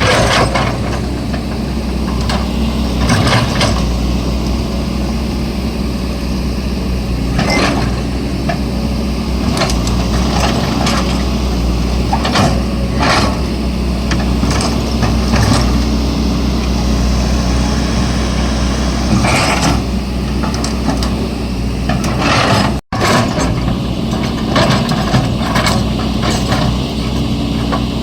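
Excavator's diesel engine running steadily under load, with irregular metallic clanks and scrapes from the bucket and the material it is digging and loading.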